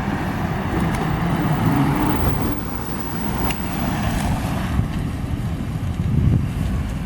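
A vehicle's low engine rumble with wind buffeting the microphone, steady throughout with no siren.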